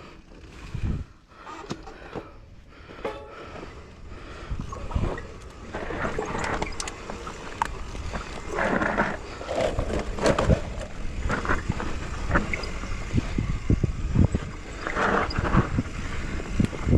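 Bicycle rattling and clattering over a rough, bumpy trail, with tyre noise and many irregular knocks that grow louder about five seconds in.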